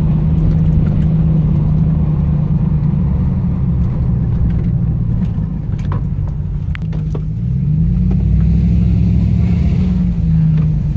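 Pickup truck engine running under way, a steady drone whose pitch climbs as it accelerates about eight seconds in. A few light clicks near the middle.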